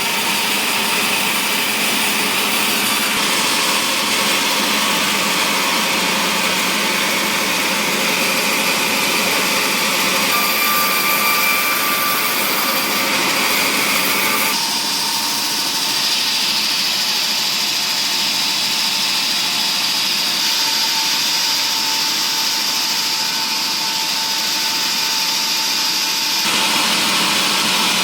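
Woodworking machinery running steadily in a wood-processing factory, a loud continuous machine noise whose tone shifts abruptly about halfway through and again near the end.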